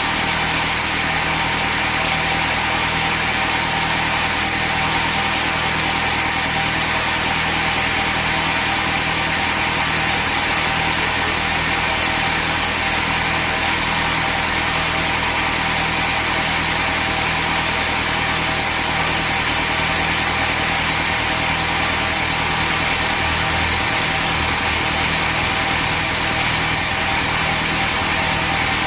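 Sawmill machinery running steadily with a constant engine-like hum, never rising or falling in pitch.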